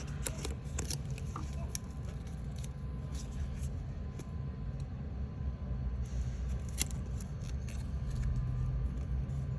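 Scattered light clicks and rustles of thin card model pieces being handled and worked, over a low steady hum.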